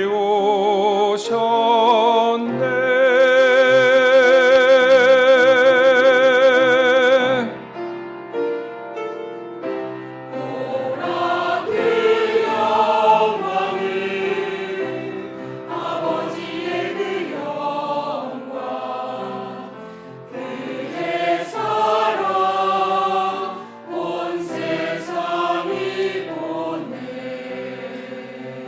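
Church choir singing a Christmas cantata song. About three seconds in, it holds one long, loud chord with vibrato for about five seconds, then carries on more softly with moving lines.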